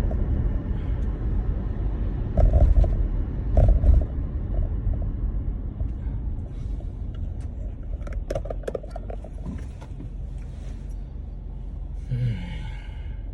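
Car cabin road noise while driving on a snowy, icy road: a steady low rumble, with two heavier thumps as the car jolts over bumps about two and a half and four seconds in, and a run of sharp clicks and rattles a few seconds later. A short pitched sound comes near the end.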